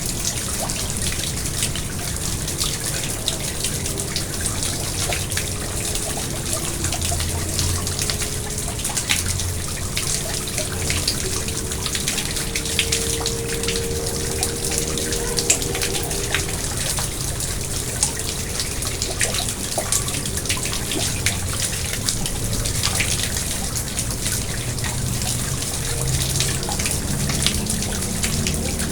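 Water trickling and splashing in a garden pond: a steady rush dotted with many small drips and splashes.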